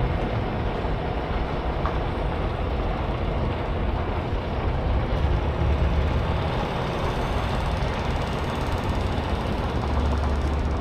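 Tractor-trailer on the road: steady diesel engine drone under continuous road noise.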